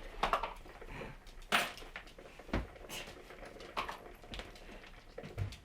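Scattered light knocks, clicks and rustling in a small room, about one every second or so.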